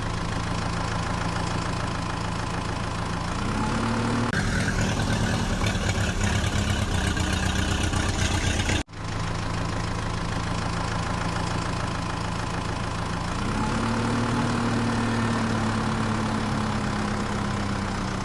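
Engine of a heavy vehicle idling with a steady low hum, its pitch rising as it revs up a few seconds in. The sound cuts off abruptly about nine seconds in, restarts at idle and revs up again later on.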